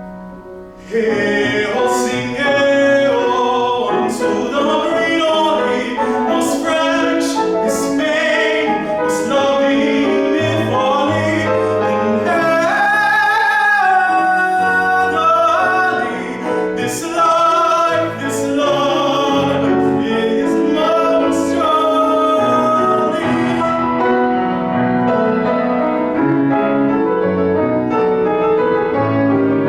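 A classical solo singer in operatic style singing an art song with piano accompaniment. The voice comes in loudly about a second in, over piano chords that continue underneath.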